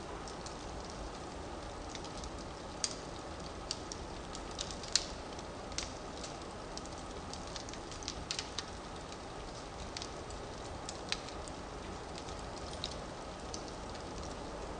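Firewood burning in a fireplace: a steady low rush of flame with irregular sharp crackles and pops, about a dozen, the loudest about five seconds in.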